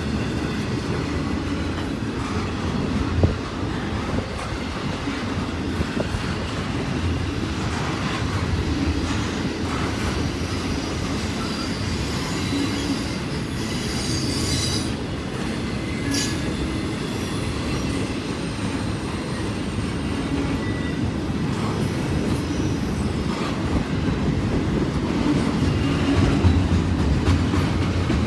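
Double-stack intermodal well cars rolling past: a steady low rumble and clatter of steel wheels on rail, with a sharp knock about three seconds in and brief high-pitched wheel squeals about halfway through.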